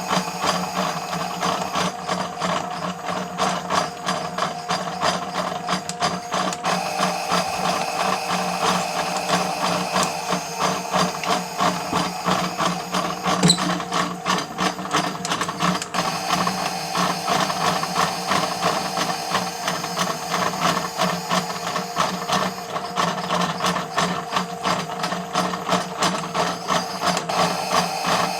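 Miele W1 toy washing machine's small motor and plastic gears running steadily, with a low hum and fast, even clicking from the gear train. A single sharper click comes about halfway through.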